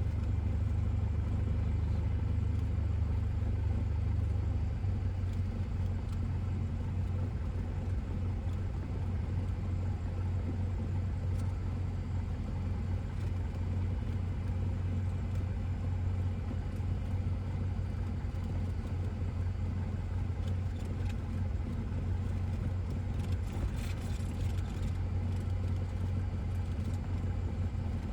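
Cessna 172S's four-cylinder Lycoming engine and propeller running steadily at low power, a continuous low drone that shifts slightly about five seconds in.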